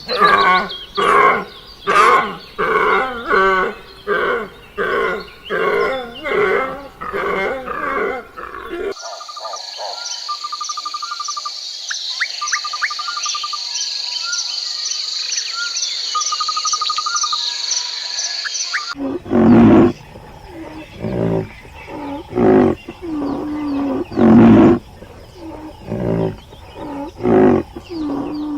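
Animal calls in three stretches. First comes a fast series of loud pitched calls, about two a second. Then a steady high whine with short trilled chirps. Then a further run of loud, irregular calls.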